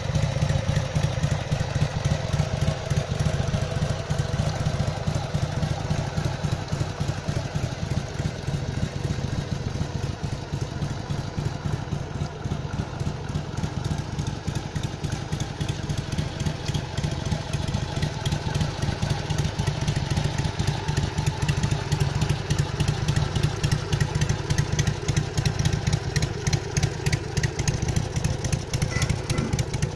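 Harley-Davidson XLH 883 Sportster's air-cooled V-twin idling steadily, a fast even pulsing from the stock chrome exhaust.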